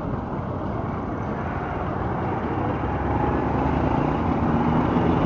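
Motorcycle engine running while riding in slow city traffic, with the noise of surrounding vehicles; the engine note rises and gets a little louder about halfway through.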